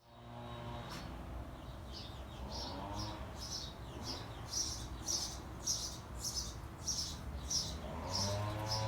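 A bird chirping over and over, about two short high chirps a second, starting a couple of seconds in, over a steady low hum.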